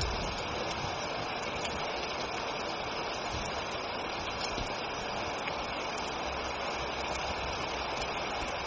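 Steady rain falling, an even hiss that neither builds nor breaks.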